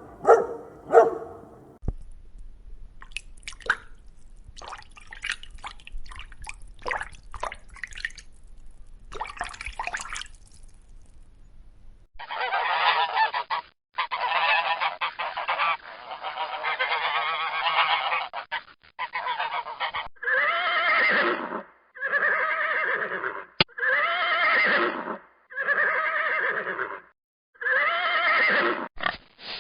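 Geese honking: first a dense overlapping flock of calls, then single loud honks about once a second. A dog barks a few times at the very start, and faint scattered clicks and taps come before the honking.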